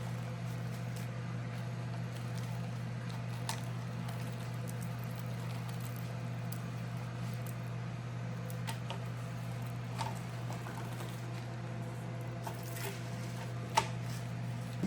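Food dehydrator's fan running with a steady hum. There are a few light clicks and knocks from the trays being handled, and a sharper click near the end.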